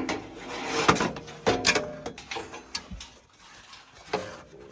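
Irregular metal clanks and clicks of tools and sheet-metal furnace parts being handled, some knocks ringing briefly, during blower-motor reassembly.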